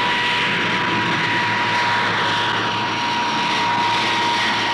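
Armstrong Whitworth Argosy's four Rolls-Royce Dart turboprop engines, passing loud and steady: a dense rushing engine noise with a high whine held on one pitch.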